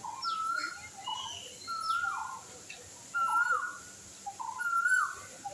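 A bird calling the same call four times, about every second and a half: a short low note, then a longer whistled note that drops off at its end. Fainter, higher chirps sound in between.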